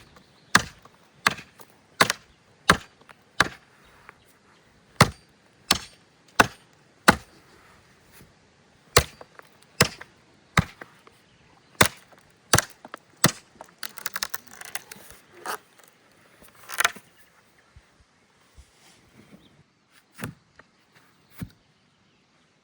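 Wood being chopped: sharp strikes about every two-thirds of a second, then in uneven runs with pauses, a brief spell of rapid crackling about fourteen seconds in, and a few last strikes near the end.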